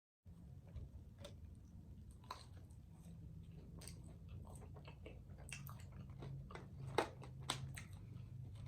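Faint chewing of fast food, with scattered wet mouth clicks and smacks, two of them louder about seven seconds in.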